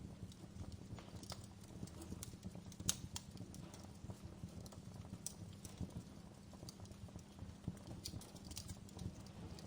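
Wood fire crackling in a fireplace: a low steady rumble of burning with irregular sharp pops and snaps, the loudest about three seconds in.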